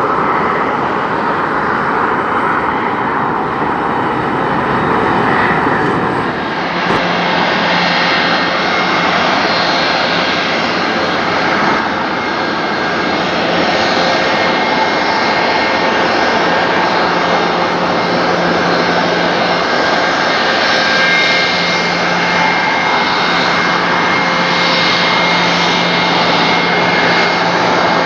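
Jet airliner engines at takeoff thrust: a loud, steady rushing noise with a faint high whine. About seven seconds in the sound changes abruptly to a brighter, fuller rush with steady whining tones.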